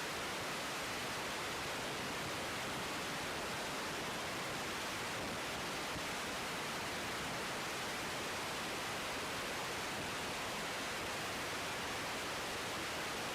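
Steady, even hiss with no other sound, heard in the gap between air traffic control radio calls.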